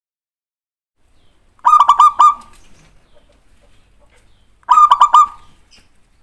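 Zebra dove (perkutut) song: two short phrases of four or five quick coos each, about three seconds apart.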